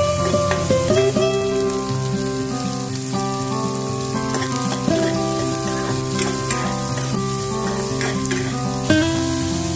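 Chopped onions and green chillies sizzling in hot oil in a metal pan, with a few sharp clicks. Gentle guitar background music with held notes plays over it.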